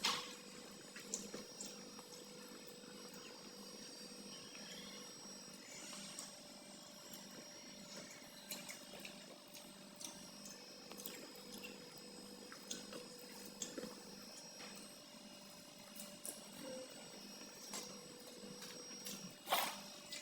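Close-up sounds of a person eating pakhala (watered rice) with fried egg by hand: soft chewing and lip-smacking with scattered small clicks, a sharper cluster of clicks near the end.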